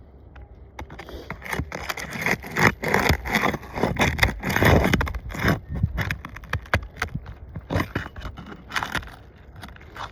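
Asphalt roof shingles being pried up and worked loose by hand, a run of irregular scrapes and crackles, heaviest a few seconds in.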